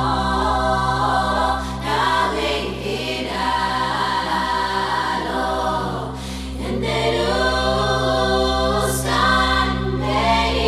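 Music: a choir singing over a held low bass drone, the voices swelling and dipping about six seconds in.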